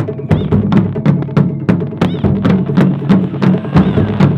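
Japanese taiko drums played in a fast, driving rhythm, with sharp clicking strikes about four times a second over deep drum tones.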